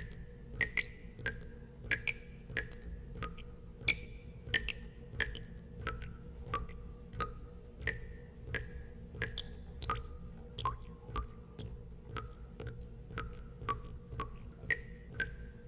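Water drops falling one after another into water, each a short pitched plink at a different pitch, about two a second. A steady low rumble sits underneath.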